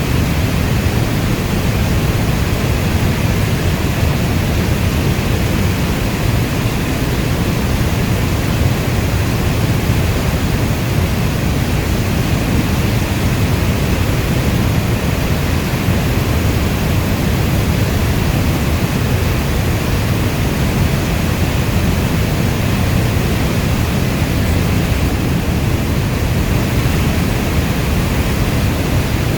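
Steady rainstorm: a dense, even rush of heavy rain with a deep low rumble and no single drops or thunder standing out.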